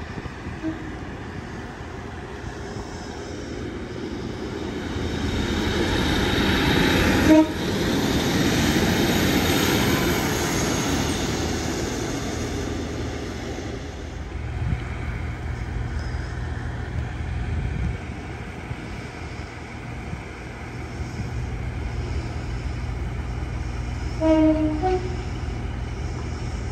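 Diesel train: its running noise builds to a peak about eight seconds in and fades away, then gives way to a steady low engine hum. Short horn toots sound faintly at the start, at the loudest moment, and twice in quick succession near the end.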